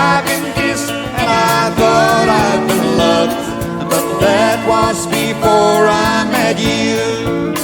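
Country band playing live: drums keeping a steady beat under piano, bass and guitars, with a sliding melody line on top.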